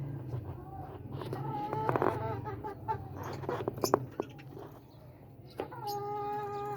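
Birds calling: several short warbling calls, then one long steady call near the end.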